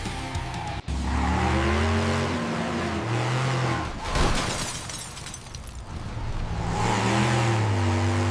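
Cartoon truck engine sound effect revving in two long surges, with a short whoosh between them.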